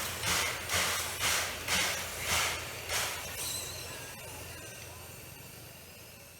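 Steam locomotive dressed as Thomas the Tank Engine (Oigawa Railway's C11 227) chuffing as it runs, exhaust beats about two a second that fade out after about three seconds, leaving a dwindling hiss as it goes away.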